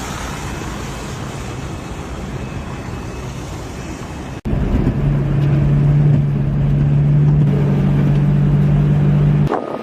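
Gusty wind buffeting the microphone as a steady rushing noise. After a sudden cut about four and a half seconds in, a loud, steady, low-pitched engine hum takes over and stops just before the end.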